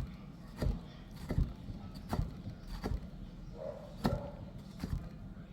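Knife chopping on a cutting board, one knock about every 0.7 seconds.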